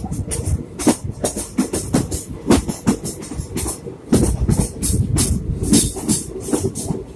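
Passenger train running, its wheels and carriages clattering quickly and unevenly, several sharp knocks a second, with music playing along with it.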